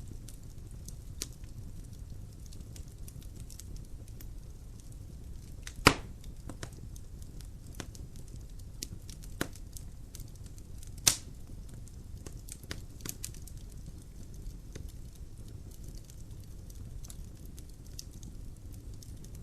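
Logs burning in a fireplace: a low steady rumble of flame with scattered crackles and two loud sharp pops, about six and eleven seconds in.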